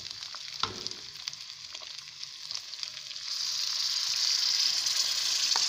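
Onions frying in hot oil in a steel karahi, sizzling steadily; about three seconds in the sizzle grows louder as a bowl of wet masala is poured into the hot oil. A couple of light knocks come near the start and near the end.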